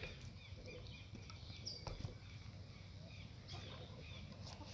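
Faint outdoor ambience with scattered faint bird chirps, and a soft click about two seconds in.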